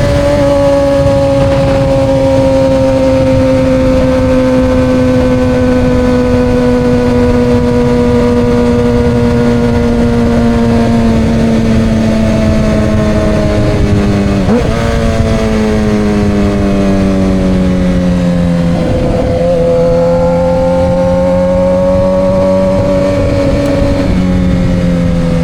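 Suzuki GSX-R750 inline-four through aftermarket Coffman slip-on exhausts, ridden at a steady throttle: the engine note slowly sinks, breaks briefly about halfway through and again about three quarters of the way, then climbs a little. A steady rush of wind and road noise lies underneath.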